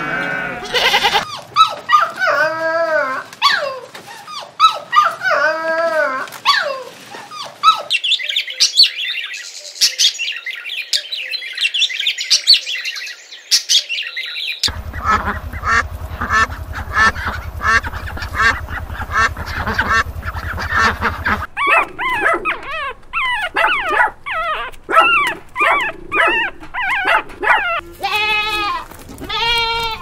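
A run of farm animal calls: goats bleating at the start, then many short calls from a flock of domestic ducks quacking over a low hum, and repeated high, wavering bleats from a lamb near the end. A stretch of only high-pitched calls about a third of the way in is from an animal that cannot be told.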